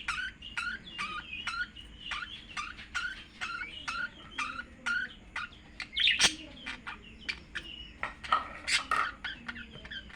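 Small birds chirping in quick repeated short notes, about two a second, with a few louder, sharper calls about six seconds in and again near the end.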